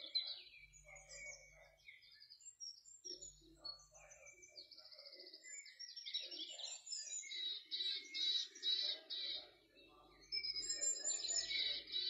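Several small birds chirping and singing, overlapping, with fast trilled phrases that grow louder in the second half.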